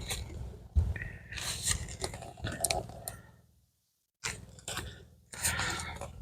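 Metal hive tool scraping and prying at wooden hive boxes and frames: a run of irregular scrapes and clicks, broken by two short pauses.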